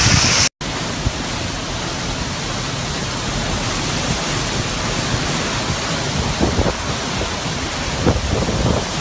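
Hurricane wind and heavy rain: a steady, even rush of noise that starts after a brief cut about half a second in.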